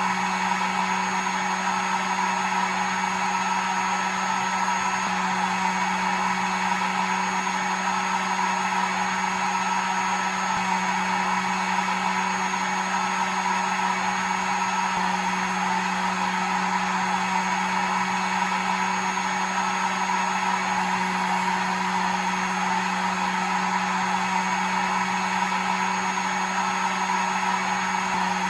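Electric hair dryer running steadily, a constant rush of air over a low motor hum, with a faint high whine on top.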